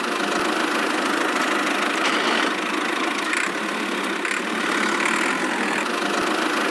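A small motor running steadily at an even speed, with no change in pitch.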